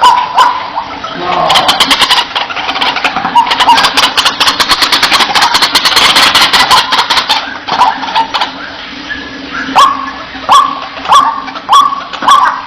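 White-breasted waterhen (ruak-ruak) calling. A dense, harsh chattering comes first, then a steady run of loud, repeated 'wak' notes about every half second in the second half.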